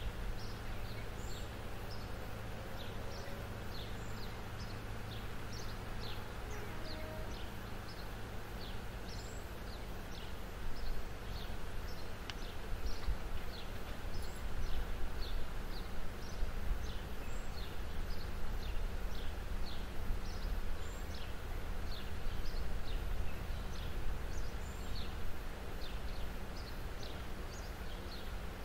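A small bird chirping over and over, short high chirps about twice a second, over a low steady rumble that turns gustier after about ten seconds.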